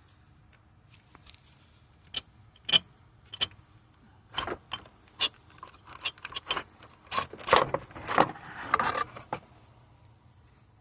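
Metal parts and tools clinking and rattling as they are handled: a string of sharp clinks beginning about two seconds in, thickest in a short clattering run near the end, then stopping.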